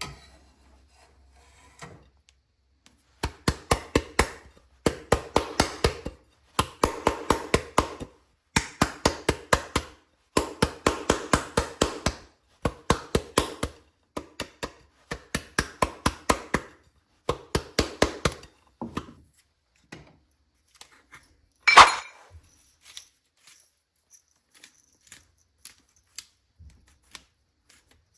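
Quick runs of sharp kitchen knocks, about five a second, in bursts of a second or two with short pauses, while the risotto is plated. One louder clack follows, about three quarters of the way through.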